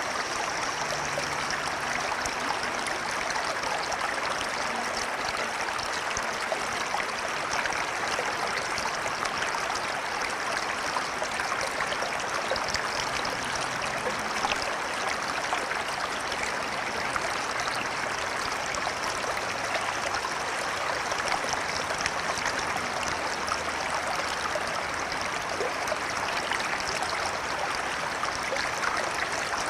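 River water flowing steadily, an even rushing and trickling with no breaks.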